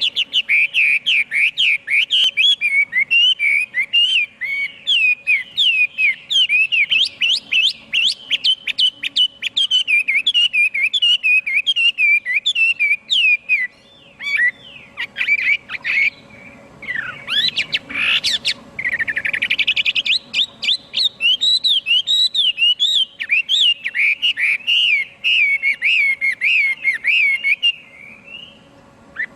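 Chinese hwamei singing a long, rapid run of varied whistled notes that sweep up and down. The song breaks up briefly about halfway through, then resumes.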